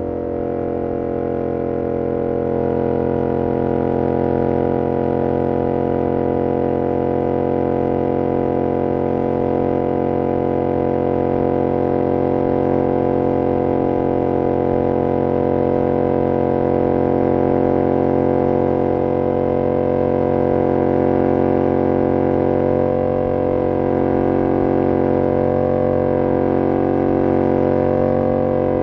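2022 Yamaha R7's CP2 parallel-twin engine through an SC-Project CR-T exhaust, cruising at steady revs. It picks up slightly over the first few seconds, then holds a constant drone.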